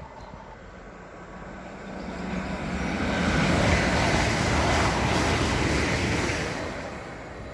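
A train passing at speed: a broad rushing noise that swells about two seconds in, holds for a few seconds and fades away near the end.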